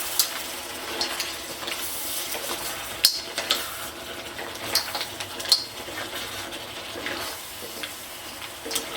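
Seafood sizzling in a pan, with a few sharp clinks of a utensil against the pan as it is stirred.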